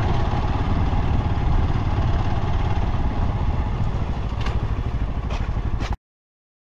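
Motorcycle engine running steadily while riding, a dense low rumble that cuts off abruptly near the end.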